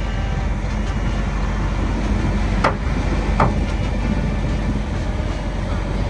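Dump truck's diesel engine running with a steady low rumble. Two short, sharp higher sounds cut through it, one about two and a half seconds in and another under a second later.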